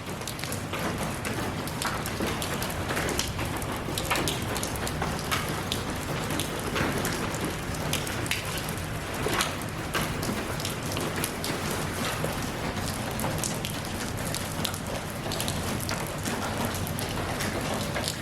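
Steady rain falling and pattering on a surface, with many distinct drops landing close by.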